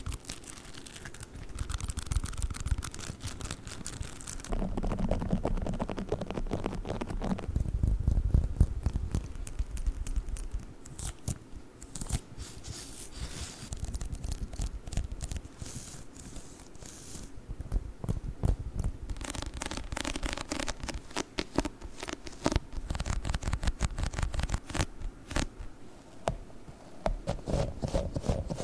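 Sticky, tacky objects close to the microphone being pressed and pulled apart: dense sticky crackling and peeling clicks in a run of short clips whose texture changes every few seconds.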